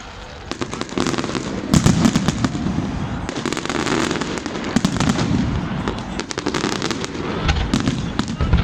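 Fireworks going off in a display: rapid sharp bangs and crackles, coming in dense clusters several times.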